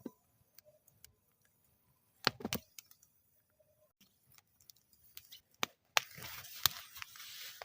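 Wood fire in a metal fire bowl crackling, with scattered sharp pops and a cluster of loud snaps about two and a half seconds in. From about six seconds in a steady hiss rises under the crackle.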